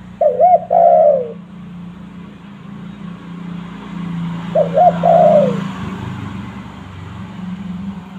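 Spotted dove (tekukur) cooing: two calls about four seconds apart, each a quick double note followed by a longer falling coo. A steady low hum runs underneath.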